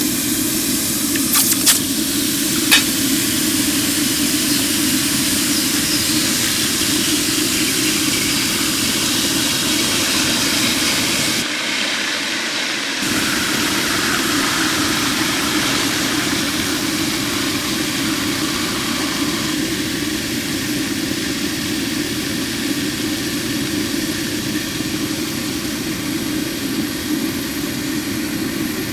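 Water boiling hard around hot copper bars, a steady rumbling hiss of steam, with a few sharp clinks in the first few seconds and a brief break in the sound near the middle.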